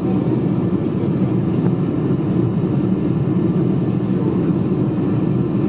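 Steady cabin roar of a Lufthansa Boeing 747-400 at takeoff power or in the climb: engine and airflow noise heard from inside the passenger cabin, even and unchanging.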